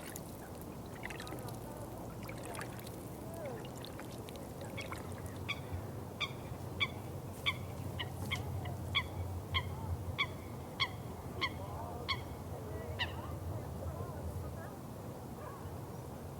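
Water trickling steadily, with a bird calling in a run of about a dozen short, evenly spaced notes, roughly one and a half per second, through the middle and then stopping.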